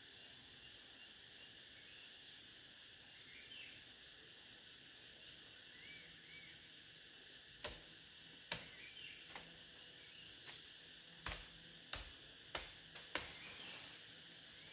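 Faint outdoor ambience: a steady high insect drone with a few short bird chirps. From about halfway come about eight sharp knocks or snaps at uneven intervals.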